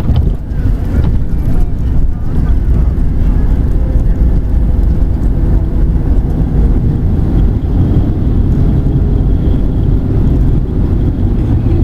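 Steady low rumble inside the cabin of a Boeing 737-800 rolling on the ground after landing, its CFM56 engines running, with a faint steady hum under the rumble.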